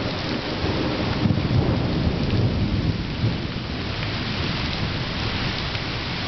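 Thunder from a close lightning strike rumbling and rolling over steady heavy rain, the rumble swelling about a second in and carrying on.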